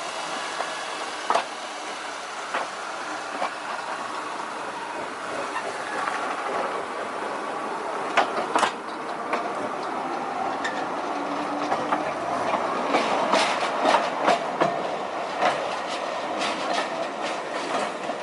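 Train running on the track, with a steady rumble and wheels clicking over rail joints; the clicks come more often in the second half.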